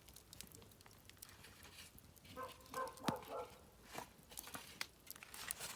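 Campfire crackling, with scattered sharp pops, the sharpest about three seconds in. Around the middle there is a brief pitched vocal sound.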